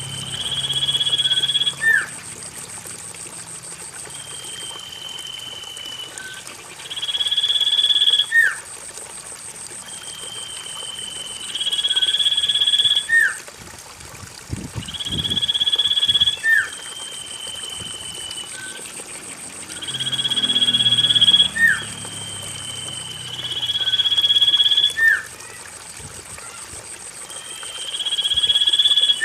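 Common iora (cipoh) calling: about seven long whistles, each swelling in loudness for a second or so and ending in a sharp drop-off note, repeated every four to five seconds, played as a lure to get a silent iora singing.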